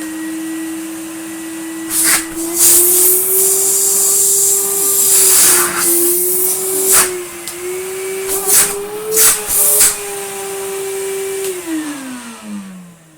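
Numatic NRV200 commercial vacuum cleaner's motor running after a fan wash: a steady whine with several loud rushes of air in the middle, then switched off, its pitch falling as it winds down near the end. The owner judges it still a little loud and not 100%.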